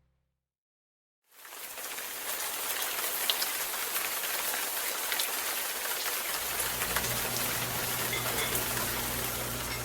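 Steady rain falling, with scattered ticks of drops hitting a surface, starting about a second in after a short silence. A low hum joins about six seconds in.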